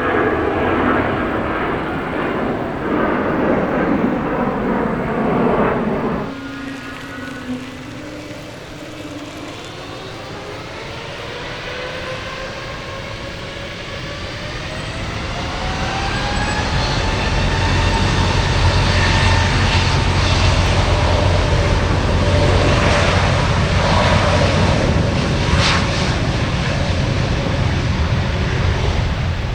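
Jet airliner engines. The loud jet noise of the first six seconds cuts off suddenly; then engines spool up with a whine rising slowly in pitch for about ten seconds and level off into a steady, louder running with heavy low rumble, as at the thrust-up for a takeoff roll.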